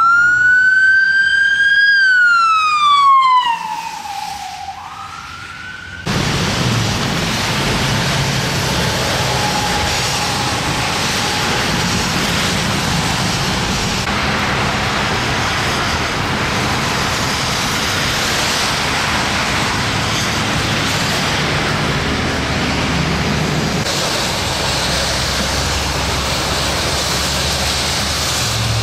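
A siren wails once, rising and then falling in pitch over the first five seconds. After an abrupt cut it gives way to a steady rushing noise of road traffic that runs on for the rest.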